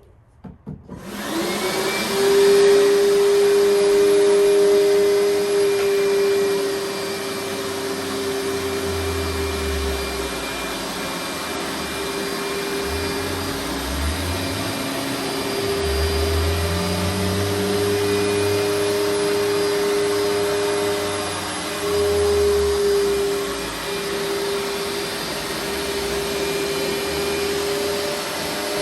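Hoover SteamVac carpet cleaner switched on about a second in, its motor winding up with a rising whine, then running steadily with a loud suction hiss while cleaning carpet; a low rumble comes and goes over it.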